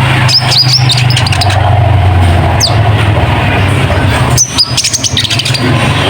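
Konin (kolibri ninja) sunbird song: rapid, high, twittering chirps in two bursts, one near the start and one in the second half, with a lone note between. A steady low hum runs under it.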